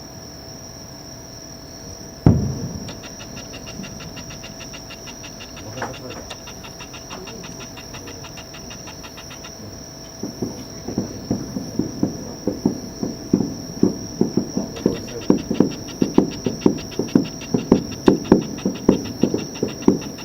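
Fireworks going off: a single loud bang about two seconds in and a smaller one near six seconds. From about ten seconds, a rapid run of bangs follows at two or three a second, under a steady high hiss.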